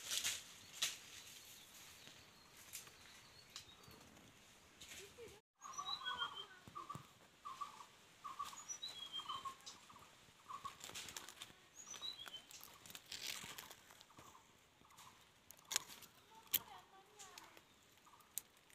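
Birds calling: groups of short, high, falling chirps repeat every few seconds, and after a sudden break about five seconds in a lower note repeats about twice a second for several seconds. Scattered faint clicks run underneath.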